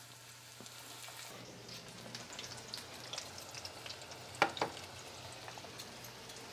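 Breaded chicken cutlets frying gently in shallow oil in a skillet: a quiet sizzle with fine crackles that grows a little louder just over a second in. Two sharper clicks come about four and a half seconds in.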